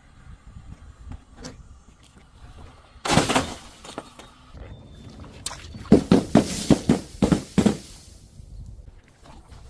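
Sharp crunching and cracking of something brittle being crushed. A sudden loud crack about three seconds in is followed a little later by a quick run of about eight sharp crunches, about four a second.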